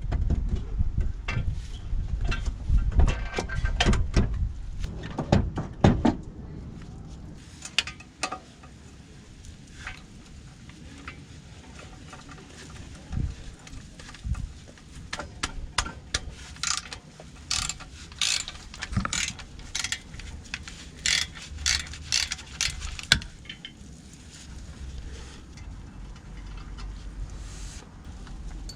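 Hand tools working on metal during a clutch replacement: scattered clinks, clicks and knocks. Heavier knocks come in the first six seconds or so, then lighter, sparser clinks.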